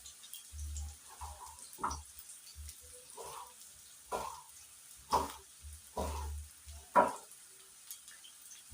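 A knife cutting tomatoes into cubes on a chopping board: about five short knocks, irregularly spaced. Onions fry with a faint sizzle in the pan underneath.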